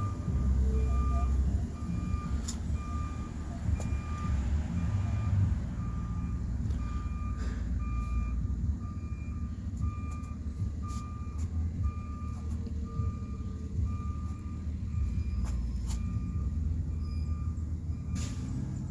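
Garbage truck backing up: its reversing alarm beeps steadily, about once a second, over the low rumble of the truck's engine.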